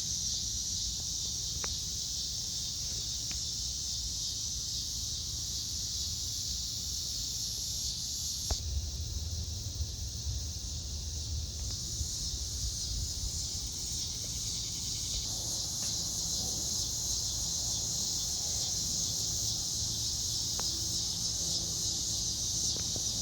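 Steady, high-pitched chirring of insects such as crickets, with a low rumble underneath and a few faint clicks.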